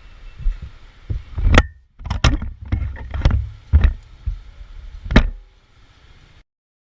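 Vehicle crash: a run of loud, sharp bangs and knocks over a low road rumble, the loudest at about one and a half seconds and just past five seconds in. The sound cuts off suddenly near the end.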